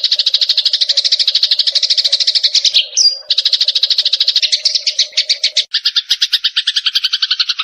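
Eurasian tree sparrows chattering: a fast, unbroken run of short chirps, about eight to ten a second. A brief higher whistle comes about three seconds in, and the chirps change to a slightly different pattern near six seconds in.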